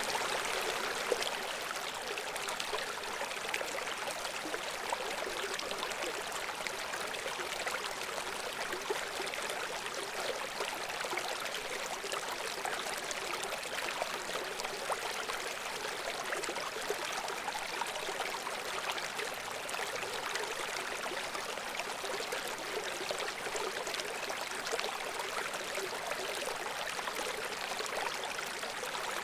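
Babbling brook flowing steadily: an even rush of running water full of small, quick splashes and gurgles, with little deep rumble.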